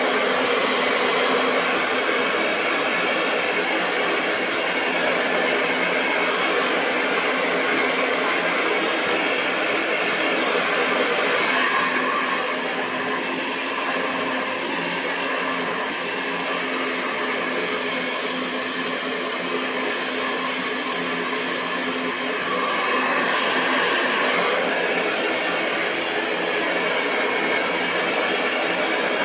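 Hair dryer running continuously: a steady rush of blown air over a constant motor hum, swelling slightly louder twice, near the middle and about three-quarters of the way through.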